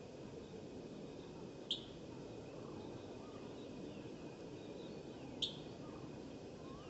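Long-tailed tits calling from a feeding flock: two short, sharp call notes about four seconds apart, with faint high twittering in between, over a steady low background rush.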